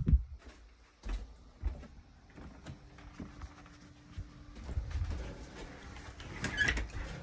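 A door being shut: a few knocks and bumps, then a short metallic scrape near the end.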